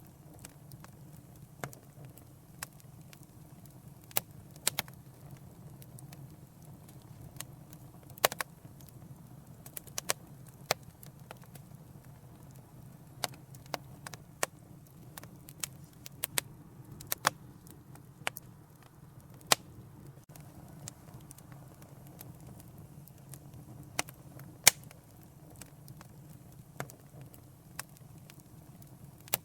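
Wood fire crackling in a fireplace: frequent sharp, irregular pops and snaps over a soft steady hiss.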